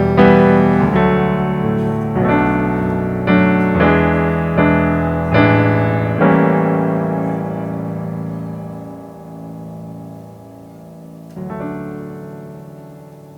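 Piano-toned keyboard playing slow chords, struck about once a second for the first six seconds, then one long chord left to fade and another chord struck near the end, fading out.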